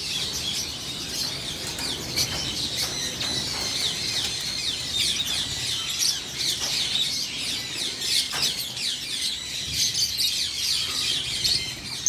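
A large flock of lovebirds chattering: a dense, unbroken mass of high, short chirps, many of them falling in pitch.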